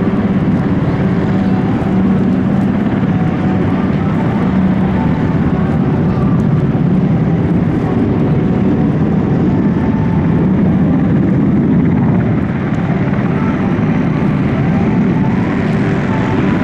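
Military aircraft engines flying over: a loud, steady drone with a faint hum of engine tones, easing slightly about twelve seconds in.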